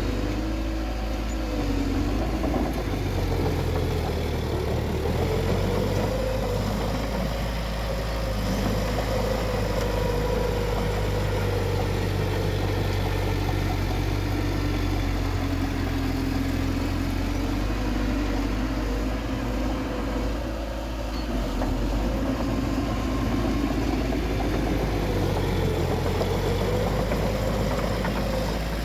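Bulldozer's diesel engine running steadily under work, its pitch drifting slowly up and down as the load changes.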